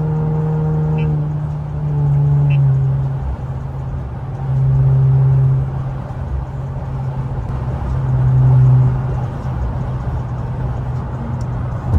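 Infiniti Q50's twin-turbo V6, fitted with a lower downpipe and intakes, droning steadily at highway cruise. The exhaust swells louder four times as the throttle comes on and eases off, with the engine pitch staying level.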